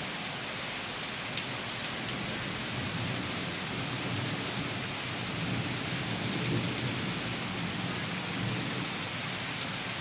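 Heavy rain pouring down onto a wet concrete courtyard and foliage: a dense, steady hiss with no letup.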